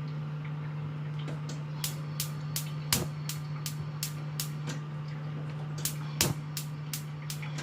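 Gas stove igniter clicking rapidly, about three sharp clicks a second, in two runs with a short break between, as the burner under the whistling kettle is lit.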